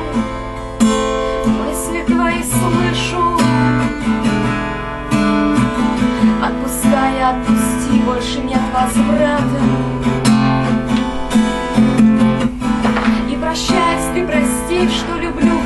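Acoustic guitar strummed steadily, playing a song's accompaniment without vocals.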